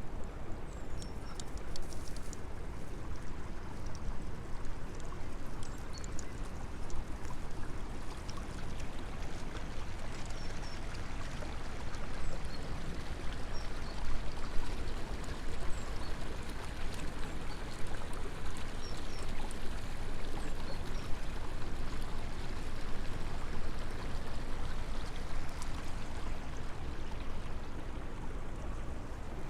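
Steady rush of running river water.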